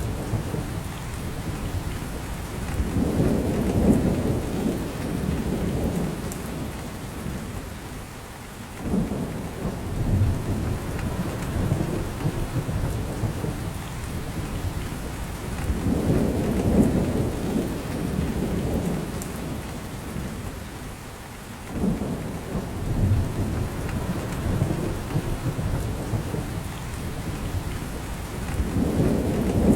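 Steady rain falling in a forest, with a low rumble that swells and fades about every thirteen seconds.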